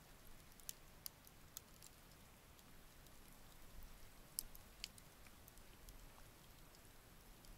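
Near silence with a few faint, scattered sharp clicks.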